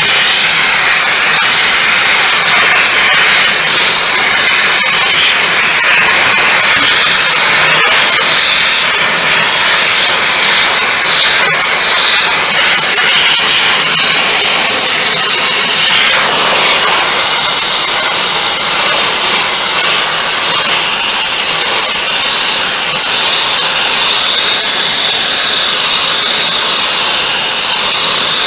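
A power tool running steadily with a loud, even hiss, its tone shifting about 16 seconds in.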